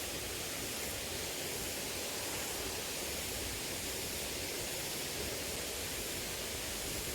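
Steady, even rush of flowing water from a small river.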